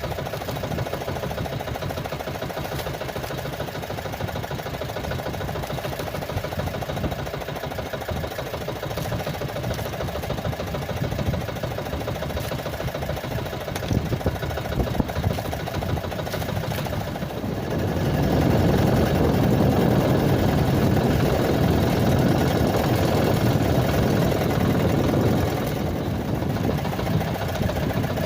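A small fishing boat's engine running steadily, growing louder for several seconds in the second half before settling back.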